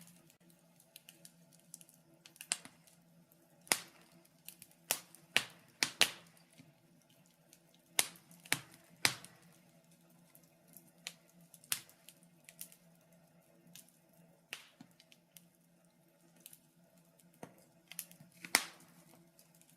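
Wood fire crackling in a fireplace: sharp pops and snaps at irregular intervals, a handful of them loud, over a faint steady low hum.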